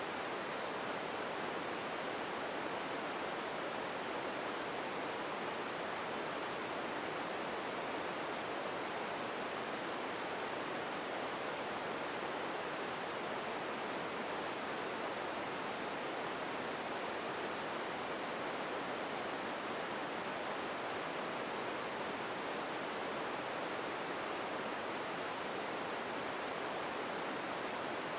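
Empty ambience noise: a steady, unchanging hiss, fullest in the middle range and thinner in the lows, with no separate sounds in it.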